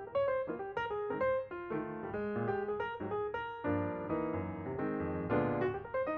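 Background piano music: a steady run of notes played at a moderate pace.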